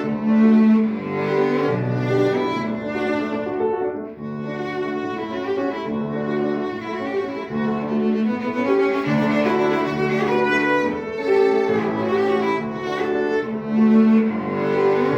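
Solo cello playing a melody with piano accompaniment, the notes changing about every half second.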